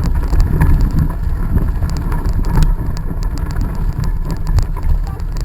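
Wind buffeting the microphone of a camera carried on a moving bicycle, a loud, steady rumble, with frequent light clicks and rattles from the bike.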